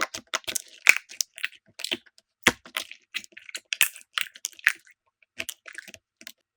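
Slime being squeezed and pressed, giving sharp, irregular crackling clicks and pops, several a second, which stop just before the end.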